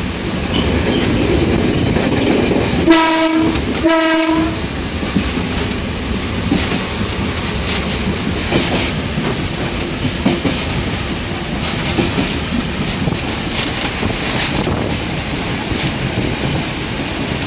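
Class S9 diesel multiple unit heard from inside its driver's cab while running, with steady rumble and clicking of the wheels over the rails. Its horn sounds two short blasts about three and four seconds in, each about half a second long.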